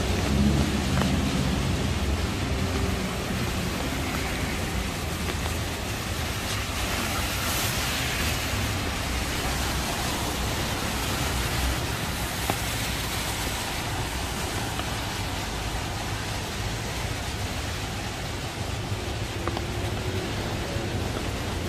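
Steady rain hiss on wet pavement and road, mixed with traffic noise on the wet street. A vehicle's engine rumble fades out over the first few seconds.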